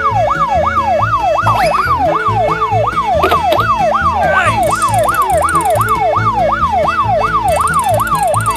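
A fast yelp-style siren, its pitch sweeping up and down about three times a second without a break, over background music with a steady beat.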